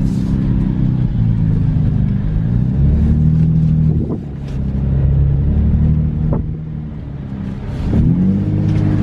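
Nissan 350Z's 3.5-litre V6 engine pulling under acceleration through the gears. Its pitch drops at shifts about four and six seconds in, then climbs again near the end.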